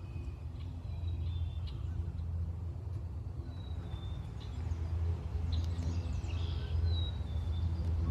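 Small birds chirping and calling in short thin notes, busier about two-thirds of the way through, over a steady low rumble.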